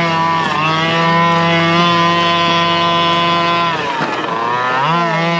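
Two-stroke engine of a Rovan RF5 1/5-scale RC rally car running at high revs with brief small dips, then coming off throttle a little under four seconds in, its pitch falling, and revving back up near the end.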